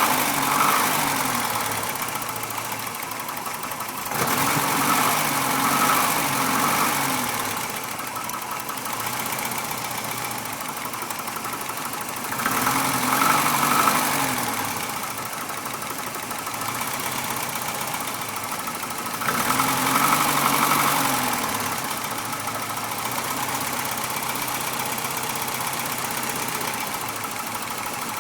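Winnebago LeSharo engine idling, its speed swelling up and settling back about every seven or eight seconds, with a knock that the owner suspects is rod knock.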